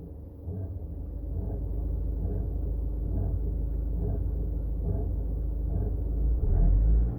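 Car engine idling with a steady low rumble and a faint noise repeating about once a second. This is the owner's unexplained noise, which goes away when the air conditioning is switched on.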